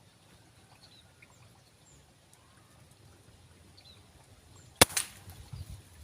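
Single sharp crack of an 'uklik' air rifle being fired, about five seconds in, with a brief ringing tail after it.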